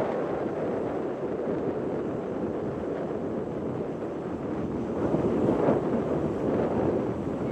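Wind buffeting the microphone aboard a moving ferry, over the steady rush of the ferry and the sea. The gusts swell about five seconds in.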